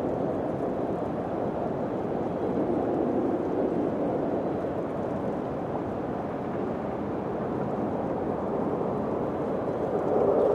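Steady wind blowing in a low, even rush, swelling a little near the end.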